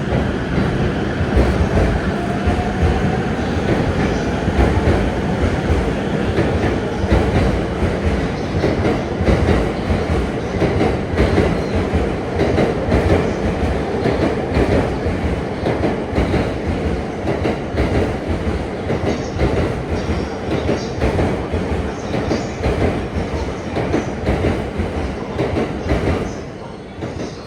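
Electric commuter train running alongside a station platform, a steady rumble with wheels clattering over rail joints and a faint rising whine a few seconds in. The noise falls away about a second before the end.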